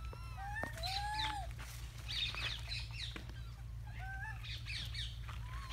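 Birds chirping and calling: short whistled calls that rise and fall, several times, among clusters of quick high chirps.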